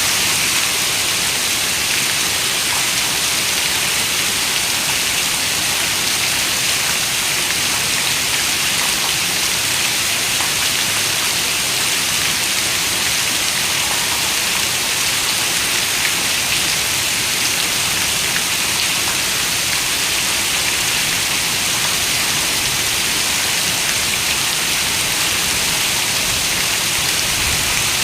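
Heavy rain falling steadily on a window: a dense, even hiss of drops, brightest in the high end, with no breaks or thunder.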